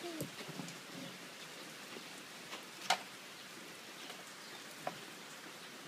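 Steady hiss of light rain falling on a patio, with a few sharp taps, the loudest about halfway through.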